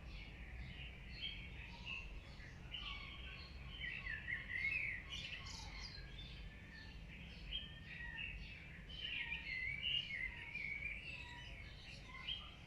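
Many birds chirping and singing together: a dense chorus of short, overlapping calls and trills, over a steady low rumble.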